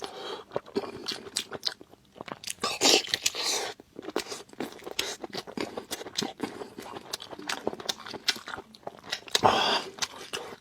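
Close-miked chewing and biting of braised pork knuckle: dense wet clicks and smacks of the mouth, with two longer, louder stretches about three seconds in and near the end.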